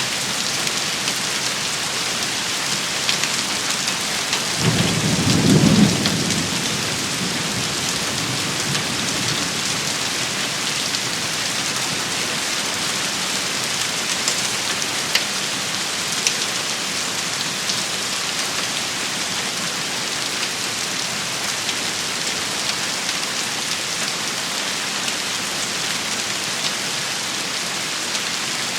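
Steady rain shower falling and pattering on surfaces, with a short low rumble of thunder about five seconds in and a few single sharp drop ticks later.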